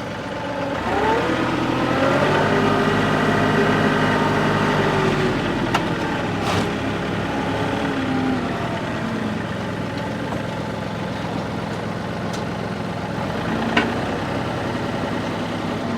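Tractor engine running as it pulls a landscape rake, revving up about a second in, holding steady, then easing off and changing speed again. A few short knocks from the implement are heard along the way.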